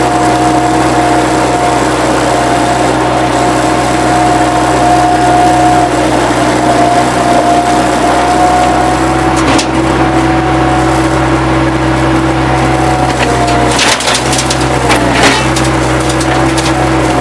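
Bobcat 763 skid-steer loader's diesel engine running steadily under load with a constant whine, while wood debris cracks and splinters about ten seconds in and again in a burst of sharp snaps near the end.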